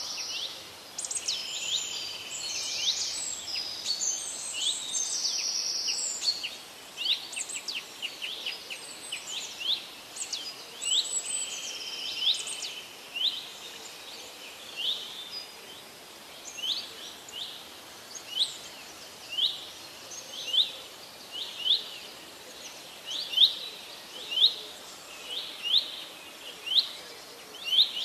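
Birds singing: a busy mix of several songs at first, then mostly short curved chirps repeated about once a second, coming quicker near the end.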